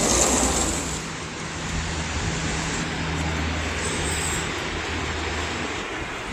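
Strong storm wind rushing steadily, with a low, even drone underneath.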